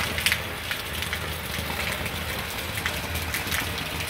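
Heavy rain falling steadily, an even hiss dotted with many sharp drop splashes.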